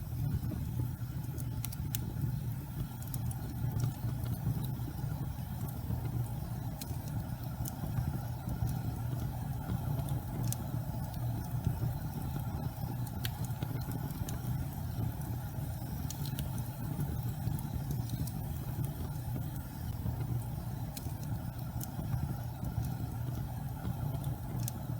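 Gas fireplace flames burning with a steady low rumble, with scattered faint crackles every second or two.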